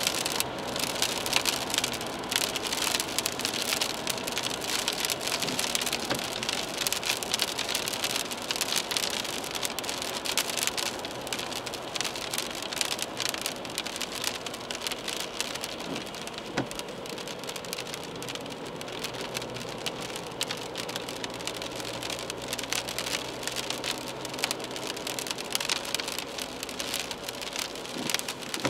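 Rain pattering steadily on the windshield and body of a moving car, a dense crackle of drops, over a faint low drone from the car and its tyres on the wet road.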